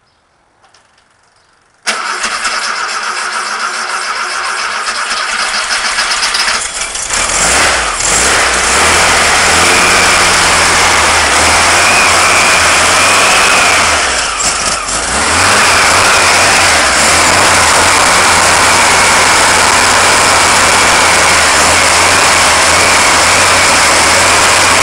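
A newly built 1776 cc VW air-cooled flat-four with headers and an EMPI 40 HPMX carburettor starts about two seconds in. It runs loud and settles into steady running, with a brief drop in speed about halfway through before picking back up.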